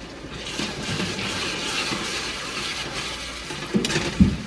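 Chopped tomatoes sizzling steadily in hot oil in a pan, just added to browned onions, with a few sharp knocks of a utensil against the pan near the end.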